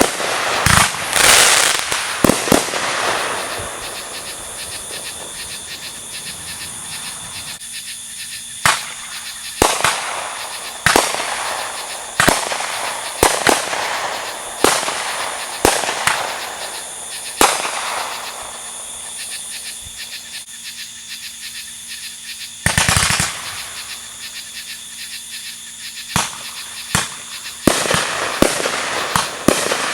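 Fireworks going off one after another: sharp bangs every second or two, each echoing off, with dense crackling volleys near the start, about two-thirds of the way in and again near the end.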